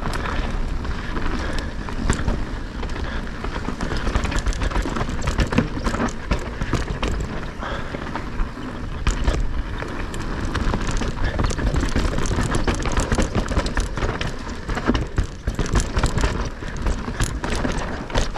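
Electric mountain bike riding down a rough dirt trail: steady tyre noise and wind on the microphone, broken by many sharp knocks and rattles as the bike hits bumps.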